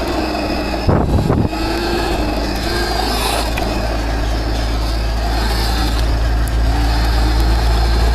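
Viper S electric dirt bike riding through mud: its electric motor whines, the pitch wandering up and down with the throttle, over a steady low rumble. A short loud thump about a second in.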